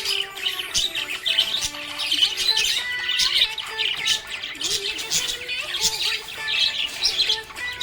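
Budgerigar chirping and squawking in a continuous rapid chatter, over background music.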